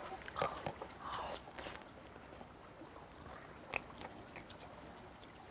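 Quiet chewing of a mouthful of peeled raw shrimp dipped in sesame-oil sauce: soft, wet crunching with scattered small clicks, most of it in the first two seconds, and one sharper click about four seconds in.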